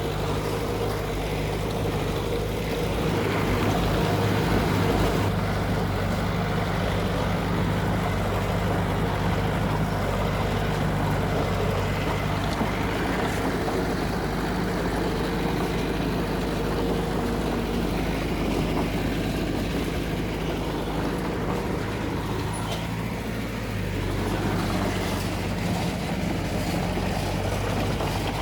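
Heavy diesel earthmoving machinery engine running steadily, with a brief dip in loudness shortly before the end.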